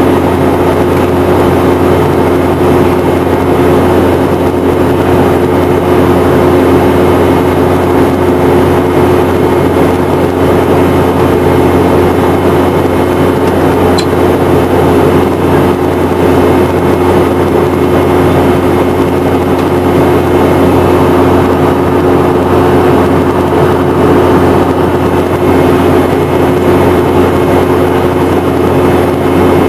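Boeing 717-200's rear-mounted Rolls-Royce BR715 turbofan engines running at a steady setting, heard inside the cabin as a loud, even drone with a low hum and two steady tones. A faint short tick comes about halfway through.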